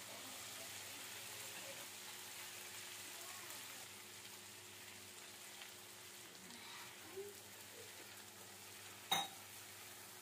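Paneer and vegetables frying in a kadai with a faint, steady sizzle, a little quieter after a few seconds. A single sharp clink of the spatula against the pan comes near the end.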